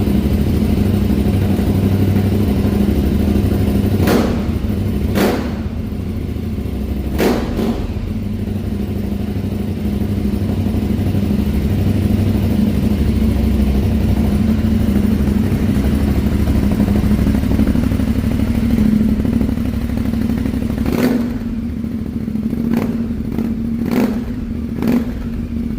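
Aprilia Tuareg 660's parallel-twin engine running steadily through a Zard de-cat pipe and slip-on silencer, a low continuous exhaust note. Short sharp knocks stand out a few times, three between about four and seven seconds in and a cluster near the end.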